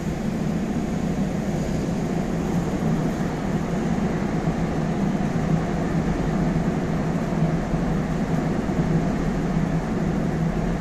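Steady low rumble and hum inside an MTR Tung Chung Line A-Train (Adtranz-CAF electric multiple unit) car.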